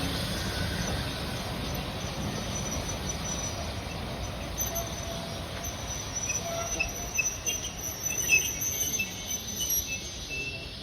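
Train rolling on the line with a low rumble that slowly fades. From about halfway there is a thin, high-pitched squeal of wheels on the rails, with scattered squeaks, that stops near the end.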